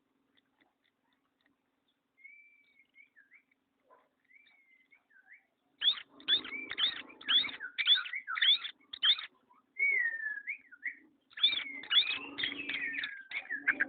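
Pet songbird singing: a few soft whistled glides at first, then about six seconds in a loud run of rapid, repeated notes, a short whistled phrase near ten seconds, and another rapid run from about eleven seconds, with a low hum under the loudest passages.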